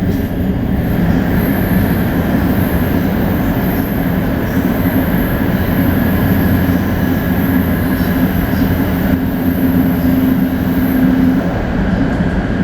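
Running noise of a 500 Series Shinkansen (Toshiba GTO-VVVF drive) heard from on board between stations: a steady loud rumble of wheels on rail, with a held hum that drops out near the end.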